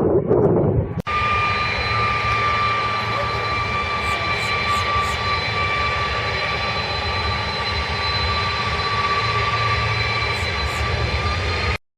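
Jet airliner engines running with a steady high whine over a low rumble. The sound starts abruptly about a second in and cuts off suddenly near the end, with wind noise on the microphone before it.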